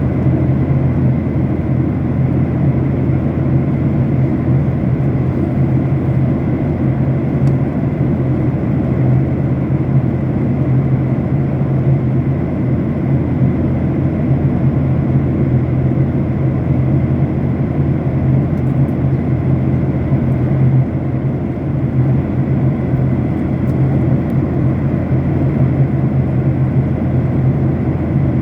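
Steady low engine and airflow noise of an airliner cabin in flight, heard from inside the plane, with a few faint ticks.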